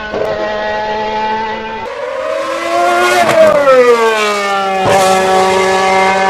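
High-revving racing car engine. It runs steadily, then after an abrupt change its pitch rises and falls away as a car goes by, and it settles into a steady note near the end.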